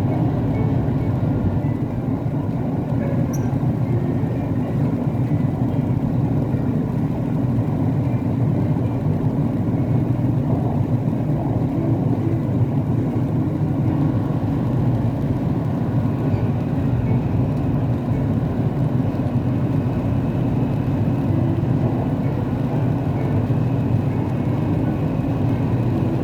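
Steady rumble of a Siemens Inspiro metro train running between stations, heard inside the carriage: wheels on the track and running gear. A faint high whine joins in a little over halfway through.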